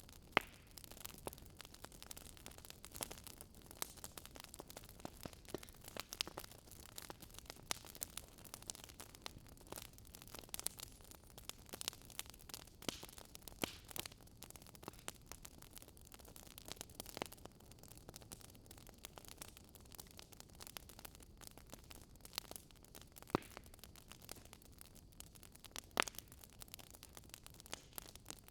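Wood fire burning in a fireplace, crackling with frequent irregular small snaps and a few louder pops, over a soft steady hiss of flame.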